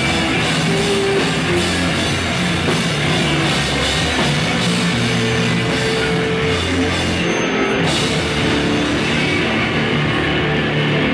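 Rock music with a drum kit and guitar, playing steadily and loud.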